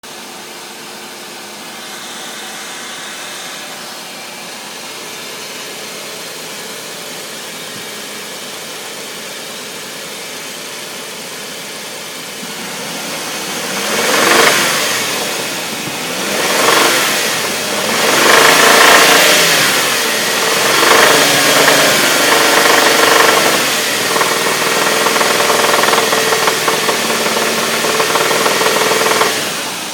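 Car engine running with a knock that the owner cannot place as a lifter, valve or timing chain. It idles steadily, then is revved up three times about halfway through, held at higher revs, and drops back to idle near the end.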